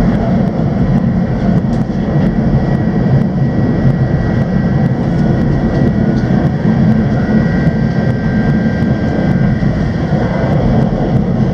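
Steady running noise of the 485-series 'Utage' electric train heard from inside the passenger car: a low rumble of wheels on rail with a faint steady whine and a few light ticks.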